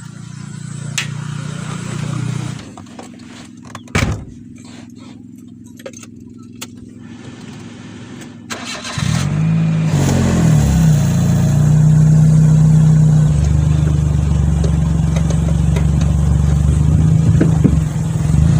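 A vehicle engine starts about nine seconds in, its pitch gliding briefly, then runs steadily and loudly. Before it starts there is a low steady hum with a few clicks and a knock.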